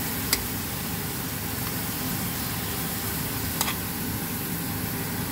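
Diced onion and frozen grated carrot sizzling in oil in a frying pan, a steady hiss, while a metal spoon stirs them and clicks against the pan twice.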